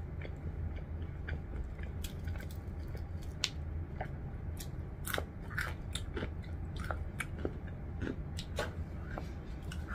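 Close-up eating of crispy Jollibee fried chicken: chewing and biting, with scattered crunches and crackles of the fried breading.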